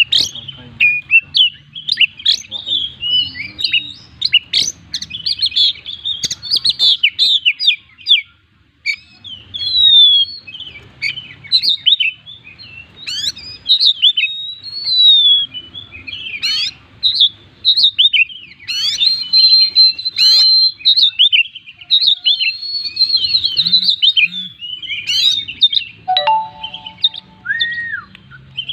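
Oriental magpie-robin (kacer) in full song: a fast, nearly unbroken run of varied high whistles, chirps and quick slurred notes, packed with mimicked calls of other birds. The song pauses briefly about a third of the way in.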